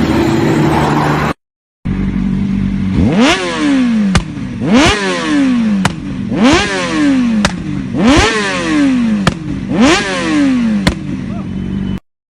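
Sportbike engine blipped repeatedly while stationary: five quick revs about every second and a half. Each jumps up sharply and falls back to a steady idle, with a short sharp crack between revs.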